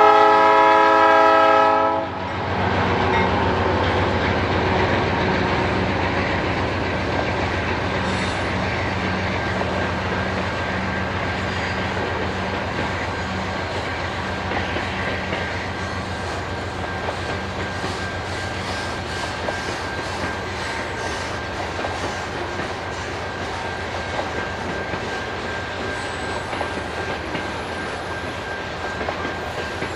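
A Canadian Pacific freight locomotive's air horn sounds a chord and cuts off about two seconds in. Then loaded grain hopper cars roll past with a steady rumble and the clickety-clack of wheels over rail joints.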